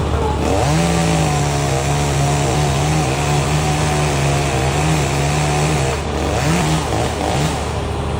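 Chainsaw run at high revs, its pitch wavering as it works through the wood, from about half a second in until about six seconds, then a few short revs. A steady low engine hum from a heavy machine runs underneath.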